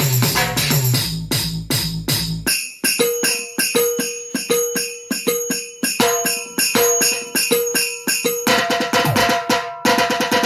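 Percussive music played on drum-pad sounds: a busy beat with heavy bass that drops out after a couple of seconds. Evenly spaced hits, each with a short pitched note, follow, and a fuller drum beat comes back about eight and a half seconds in.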